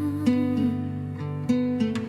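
Instrumental music led by acoustic guitar, a few plucked and strummed chords over sustained notes, with no singing.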